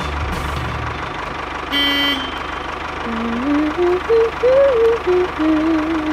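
Tractor engine running steadily with a fast low chug, a short horn toot about two seconds in, then a rising-and-falling tune of held notes from about three seconds on.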